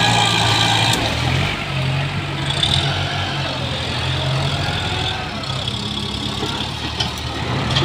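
ZT 155 tractor's engine running steadily, a little louder in the first second or so and then settling to an even note.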